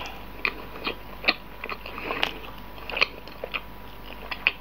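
Close-miked mouth sounds of a person chewing soft cream-filled bread with chocolate sprinkles: irregular wet smacks and clicks, about ten of them.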